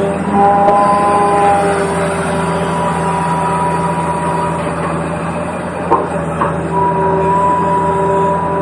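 Toy RC excavator running, its small electric motors and gears whirring with a steady hum and whining tones that shift slightly in pitch; two short clicks about six seconds in.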